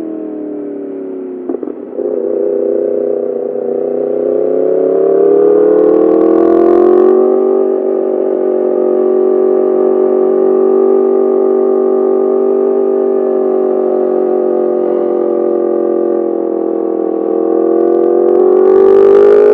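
Yamaha R1's inline-four engine through an Akrapovic full titanium exhaust, heard from the rider's seat. The revs fall off, a click comes about a second and a half in, then the engine climbs, holds steady at a cruise, and rises again near the end; a brief hiss comes about six seconds in and again near the end.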